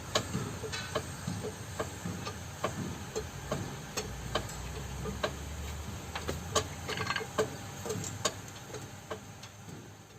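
Irregular sharp clicks and taps, roughly one or two a second, over a low steady hum that fades near the end.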